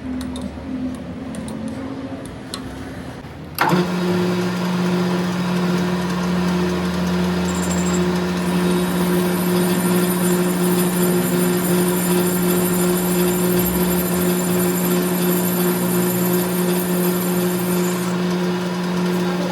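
A machine's motor starts abruptly about three and a half seconds in and runs at a steady pitch with a steady hum; a faint high whine joins it for much of the rest.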